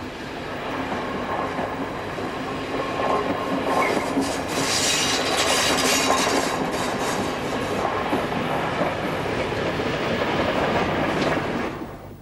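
A passenger train's coaches rushing past close by, with steady wheel-on-rail running noise that swells to its loudest about halfway through and cuts off abruptly near the end.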